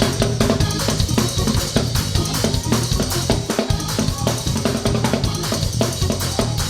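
Gospel praise band playing an instrumental intro, with a drum kit keeping a steady beat over bass and other instruments.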